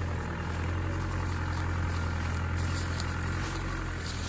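Off-road Land Rover engine running steadily at low revs while the vehicle creeps through a trial section.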